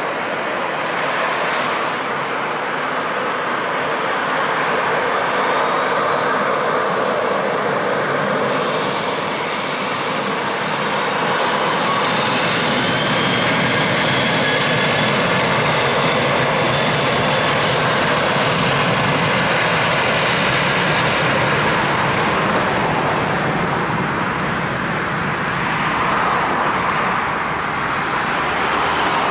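Boeing 737-800's CFM56-7B jet engines running at high power on departure: a loud, steady jet noise, with a faint high whine that shifts in pitch about a third of the way through.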